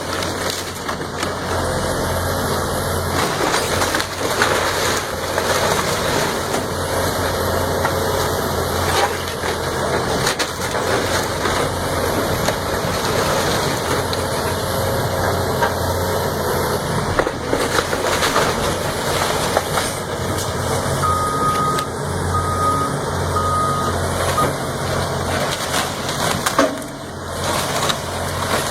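Heavy machinery at work, engine running steadily under load, with a backup alarm beeping about four times, roughly once a second, about three-quarters through.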